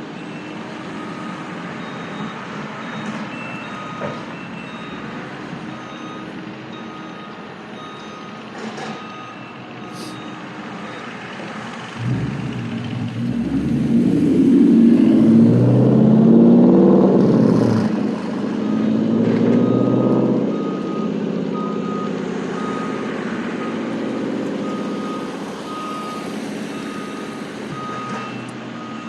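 Backup alarms on heavy machinery beep steadily and repeatedly. About twelve seconds in, a diesel engine revs up loudly, rising and falling in pitch for several seconds before dropping back.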